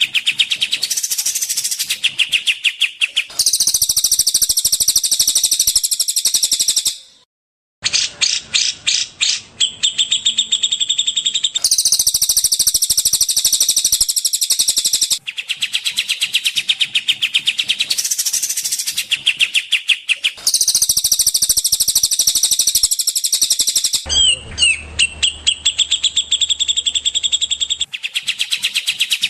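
Songbird masteran recording: fast, high-pitched trills and chattering phrases repeated in blocks a few seconds long, each block cut off abruptly and another spliced in, with a brief silence about seven seconds in.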